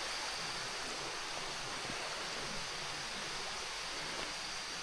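Steady rainforest ambience: an even wash of noise with a faint, thin high insect drone.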